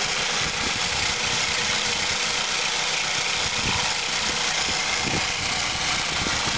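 A 2001 Ford Focus's 2.0-litre 16-valve four-cylinder Zetec engine idling steadily, running smoothly like new.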